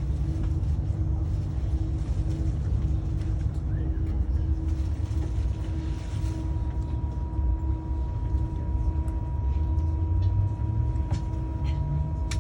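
A train at a station platform: a steady low rumble with a pulsing hum. A steady high tone comes in about five seconds in, and a second, lower tone joins near the end.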